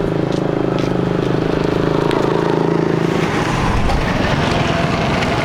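An engine running steadily for about three seconds, after which its note changes and breaks up, with voices in the background.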